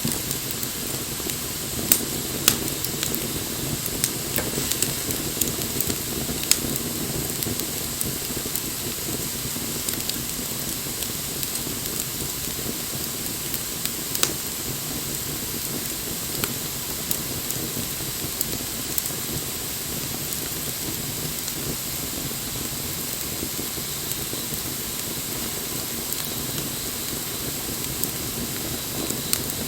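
Wood fire burning: a steady hiss of flames with scattered sharp crackles and pops, a few louder ones in the first seconds and one near the middle.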